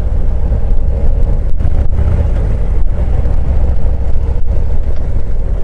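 Harley-Davidson Street Glide Special's V-twin engine running steadily on the move, a low rumble mixed with wind and road noise.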